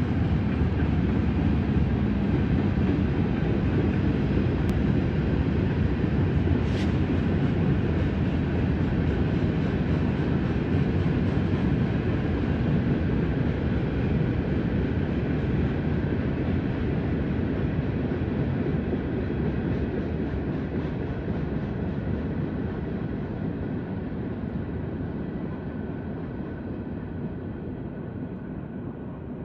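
Stone-laden work train rolling past on the rails: a steady, heavy low rumble that fades gradually over the last ten seconds or so as it moves away. A brief faint high squeal comes about seven seconds in.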